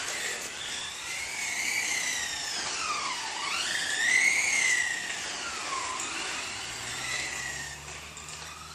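Electric motors of 1/10-scale RC race cars whining, the pitch sweeping down and back up as they slow and speed up around the track.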